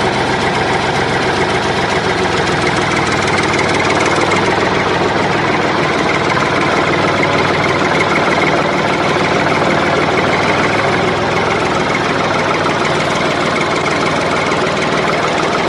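A motor running steadily and continuously, with an even mechanical hum and no change in pace.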